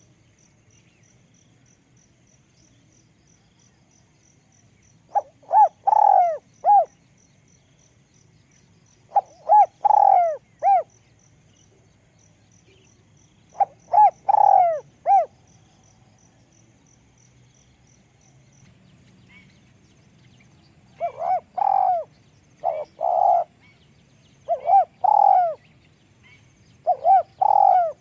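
Spotted dove cooing: repeated phrases of a few short coos running into a longer note. Three phrases come spaced several seconds apart, then about two thirds of the way in the phrases follow more closely.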